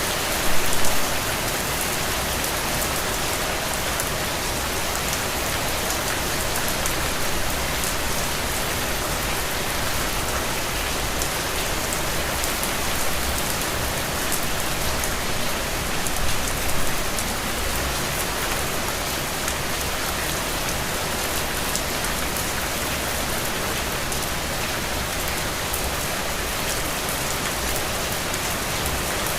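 Steady rain falling on a surface, a dense patter of drops. It swells briefly louder about a second in and again around the middle.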